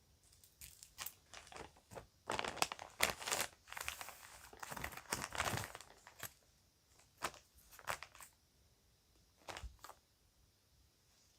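A bag crinkling and rustling as it is handled, in a dense run of crackly bursts, then a few short separate rustles and clicks near the end.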